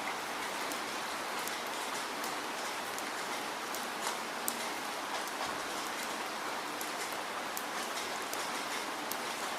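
Steady rainfall, a continuous even hiss with many individual drops ticking sharply against it.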